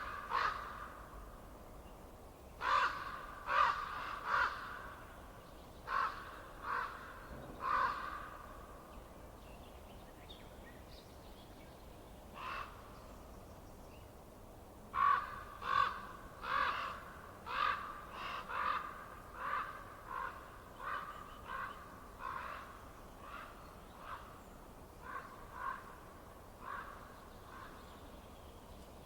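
A bird calling over and over in short pitched calls: three quick calls, then three more, a single call, and then a long run of calls about one and a half a second that grows fainter toward the end.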